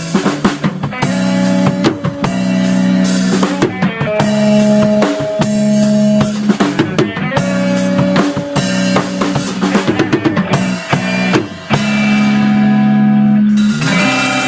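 A band playing an instrumental passage with no singing: a drum kit with kick, snare and rimshot hits over sustained bass and chord notes. Near the end the drums drop out for about two seconds under held notes, then come back in.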